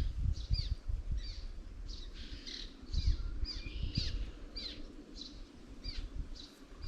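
Birds chirping: a steady run of short, downward-sweeping chirps, about two a second.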